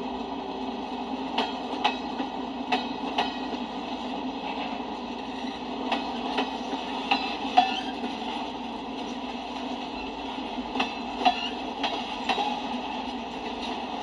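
Freight cars of a CSX manifest train, mostly covered hoppers, rolling past: a steady rumble of steel wheels on rail, broken by irregular sharp clacks as the wheels cross rail joints.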